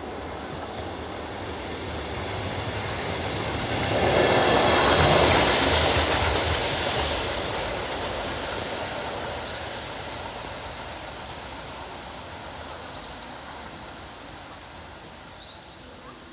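Delivery train of an EF65 electric locomotive hauling the D51 steam locomotive passing through the station: rail and wheel noise build up, are loudest about four to six seconds in, then fade away as it recedes.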